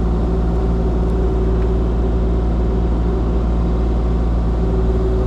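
Diesel engine of Kubota digging equipment running at a steady speed, a constant hum with no knocks or changes.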